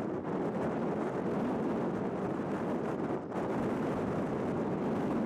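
Steady rushing noise of wind blowing across the microphone, with a brief lull about three seconds in.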